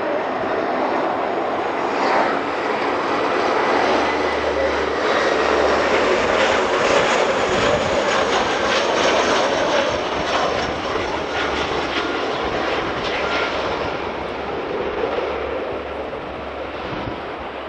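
The four Ivchenko AI-20 turboprop engines of an Antonov An-12 at takeoff power, a loud continuous engine noise that swells to a peak through the middle and fades toward the end.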